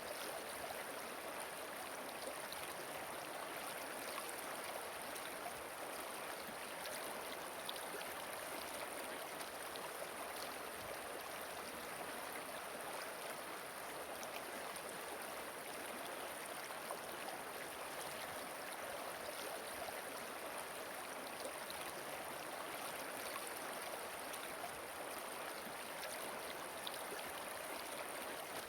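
Gently flowing river, a steady, unbroken rush of running water.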